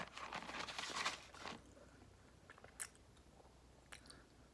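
A person chewing a bite of chicken sandwich, with crunchy mouth noises for about the first second and a half, then a few faint clicks.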